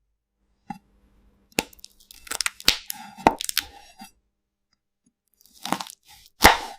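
Crisp crunching and sharp cracks of a knife slicing through a glass-like fruit. A run of crunches comes between about one and a half and four seconds in, then a pause, another short burst, and a loud crack near the end.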